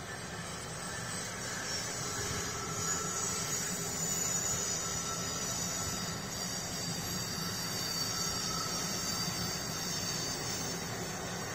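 Amtrak Acela electric trainset passing on an embankment: a steady rolling noise of the wheels on the rails with a faint high whine, heard from inside a car.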